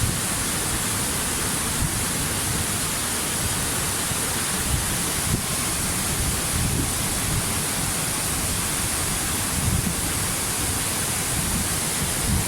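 Waterfall: a steady, even rush of falling water, with a low rumble wavering underneath.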